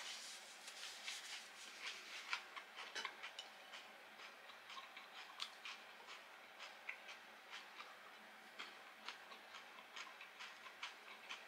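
Faint eating sounds from a person chewing deep-fried food close to the microphone: irregular soft clicks and crunches, several a second and uneven in strength.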